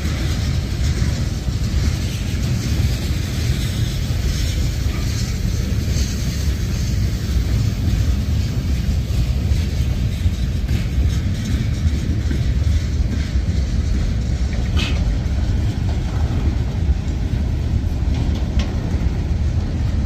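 Freight cars of a mixed freight train rolling past close by at speed: a steady, deep rumble of steel wheels on rail with clattering and clanks. A brief high squeal comes about fifteen seconds in.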